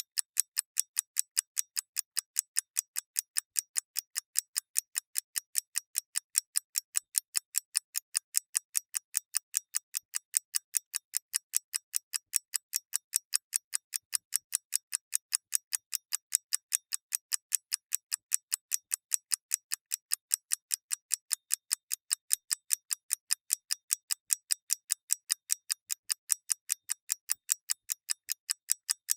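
Mechanical clockwork ticking: an even, unbroken run of sharp, high-pitched ticks, several a second.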